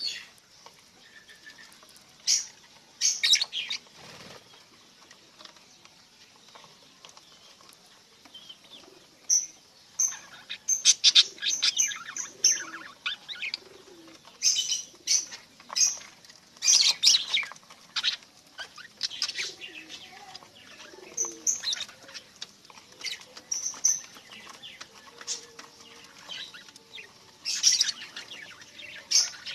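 Budgerigars chirping in short, scattered bursts of sharp, high chirps, busier in the second half.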